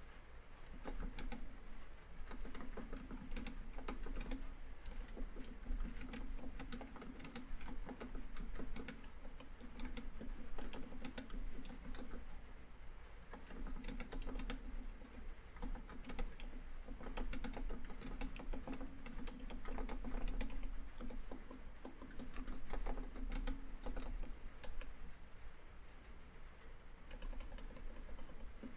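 Typing on a laptop keyboard: quick runs of key clicks broken by short pauses.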